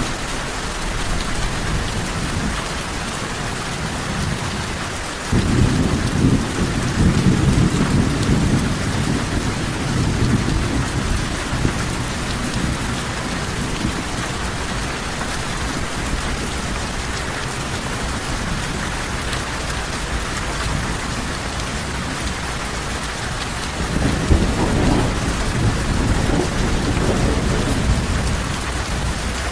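Steady heavy rain with rolls of thunder: a low rumble sets in suddenly about five seconds in and fades over several seconds, and a second roll starts near the end.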